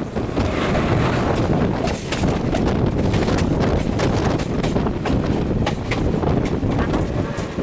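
Passenger train of blue coaches passing close alongside in the opposite direction, heard from the open doorway of another moving train. A loud, steady rush of wind on the microphone, with rapid clicking and clattering of wheels over rail joints.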